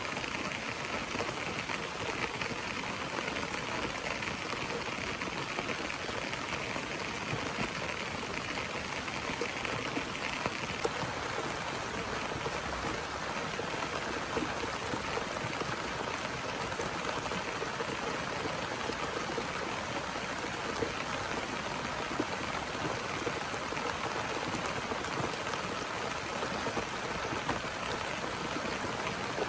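Heavy rain falling steadily, a dense even hiss with scattered drop hits; it is a little brighter for the first third or so, then evens out.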